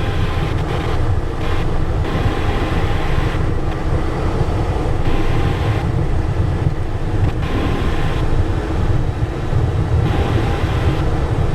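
Steady cockpit noise of a Cessna Citation Encore rolling off the runway after landing: a low rumble with a hiss over it.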